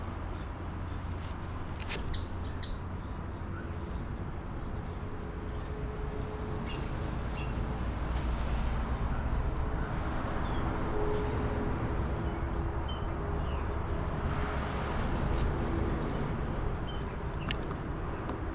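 Outdoor background: a steady low rumble with scattered faint bird chirps and a few light clicks.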